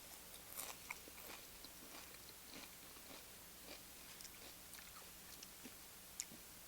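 Faint chewing of a tortilla chip with cheese dip: soft, scattered crunches and wet mouth clicks, with a couple of sharper clicks.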